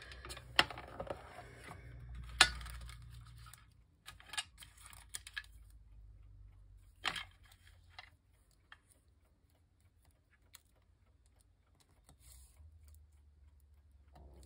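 Paper being handled on a craft table: rustling for the first few seconds, with several sharp clicks or taps, the loudest about two and a half seconds in, then a few quieter ticks.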